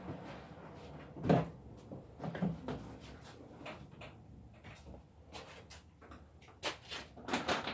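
A few scattered knocks and clicks against a quiet background, with a firmer thump about a second in and a quick cluster of knocks near the end.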